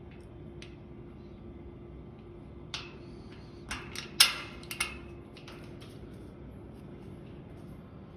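A quick run of sharp bangs and clatters from garbage being handled in a fire-escape stairwell, starting a little under three seconds in and loudest about four seconds in, over a steady low hum.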